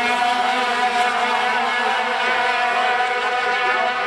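Several racing sport trucks' engines running at high revs together, a dense, steady drone of overlapping engine pitches that shift slightly as the trucks race past.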